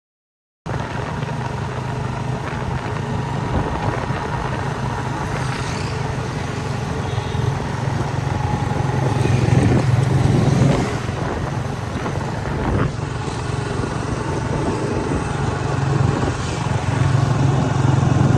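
Motorcycle engine running steadily on the move, cutting in suddenly about half a second in and swelling slightly a couple of times.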